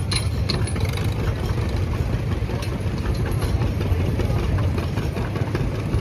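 John Deere B's two-cylinder engine running steadily at low speed as the tractor backs up.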